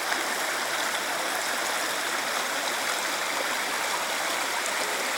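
River water rushing past in a steady, unbroken wash of flowing-water noise.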